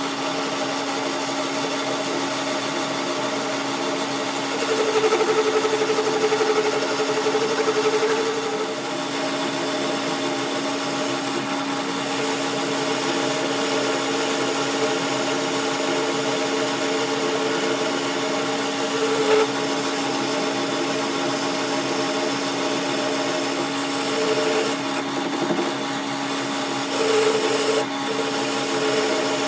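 Workshop power tool running steadily on metal with a constant hum. A louder, higher tone comes and goes in several stretches as it works.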